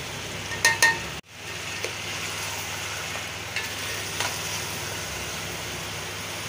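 Chicken sizzling in hot oil in a metal pot while dry spices are stirred in with a spatula. A steel plate knocks twice on the pot with a sharp ringing clink a little under a second in, and faint spatula ticks follow.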